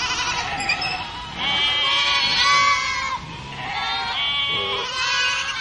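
Bleating: a run of high, wavering calls, about five in all, with a long one of about a second and a half in the middle.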